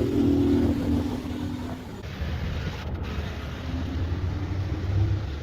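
A machine running with a steady low hum, with a pitched drone over it for the first two seconds; the sound changes abruptly about two seconds in.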